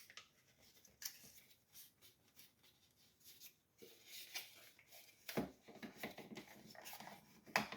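Faint, scattered rustles and light clicks of aluminum tape being pressed and smoothed onto a thin plastic chicken waterer, with a few sharper ticks in the second half.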